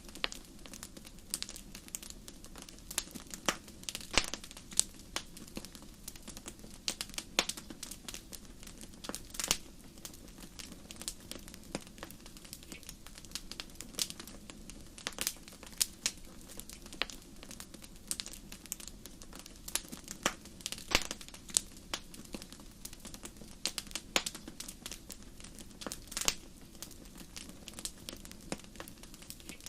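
Fireplace fire crackling: irregular sharp pops and snaps, several a second at times, over a low steady rush of the flames.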